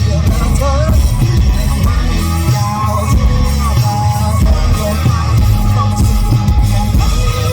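Live rock band playing through a festival PA, loud, with drums, bass and a wavering melody line, possibly a vocal.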